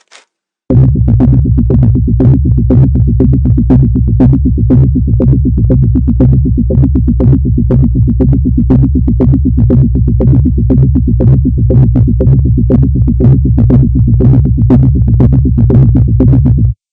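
Loud electronic synthesizer music with a heavy, sustained bass under a rapid, even beat of about five pulses a second, as used in meme sound packs. It starts about a second in and cuts off abruptly just before the end.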